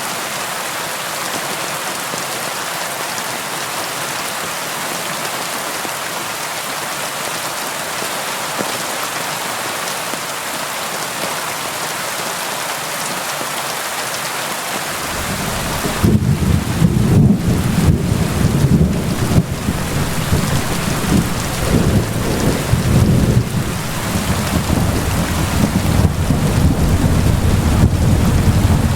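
Steady rain falling, an even hiss, until about halfway through a long roll of thunder rumbles in underneath it and keeps rolling, swelling and fading, to the end.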